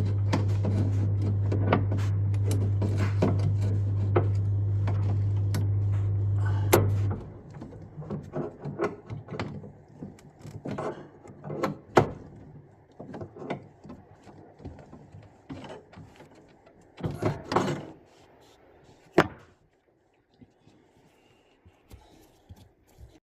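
Clicks, taps and knocks of tools and parts being handled while a boiler's plate heat exchanger is refitted, with a few sharper knocks. A steady low hum sounds under the clicks and cuts off about seven seconds in.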